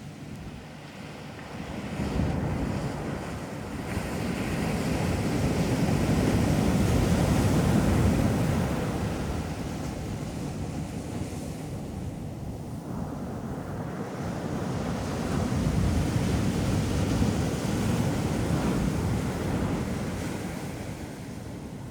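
Sea waves breaking on a beach and washing up the shore, swelling and easing twice, with wind buffeting the microphone.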